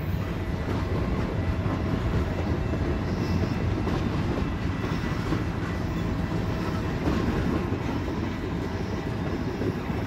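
Lit passenger cars of the Canadian Pacific Holiday Train rolling past on the adjacent track: a steady rumble of steel wheels on rail.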